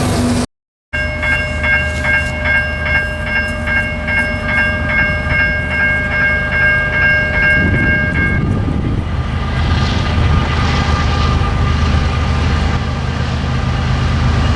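Freight train rumbling past, with a bell ringing in fast, repeated dings over it until the bell stops about eight seconds in. The sound drops out for a moment just after the start.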